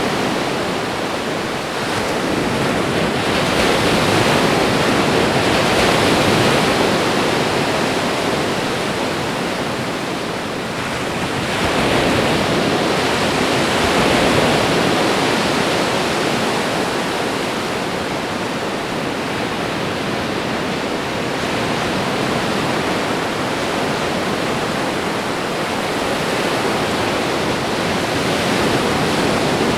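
Ocean surf: a continuous rushing wash of waves on a shore, swelling louder about four seconds in and again near the middle.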